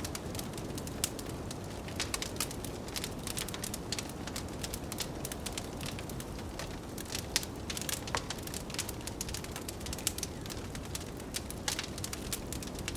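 Wood fire crackling, with frequent sharp pops scattered irregularly throughout, over a steady low rush of blizzard wind.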